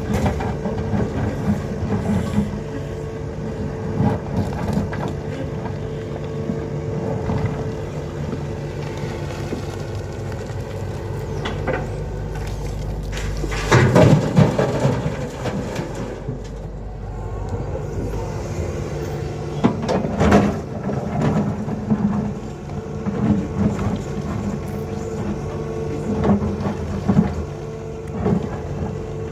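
Tata Hitachi (Poclain) 120 excavator's diesel engine running steadily under work. There is a loud rush of noise lasting about two seconds around the middle, and shorter loud bursts later.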